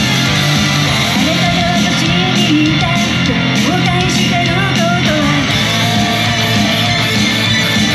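Loud rock song from an idol group's live set: electric guitar with a singer's melody through the middle.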